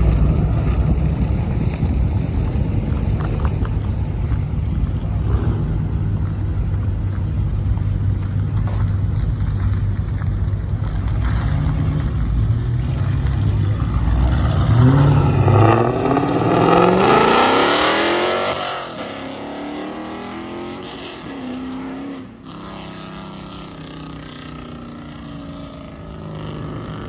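Car engine rumbling steadily, then revved hard about fifteen seconds in, its pitch climbing for a few seconds before it drops away and the sound grows quieter.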